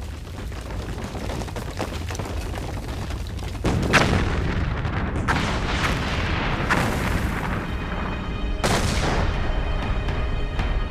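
A volcanic eruption on a documentary soundtrack: a deep rumble, then a sudden explosive blast about four seconds in, followed by more blasts over the next few seconds, with dramatic music underneath.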